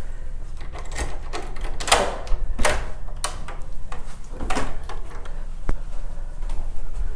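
Irregular knocks and short scraping clatters in a small room, about six in seven seconds, over a steady low rumble.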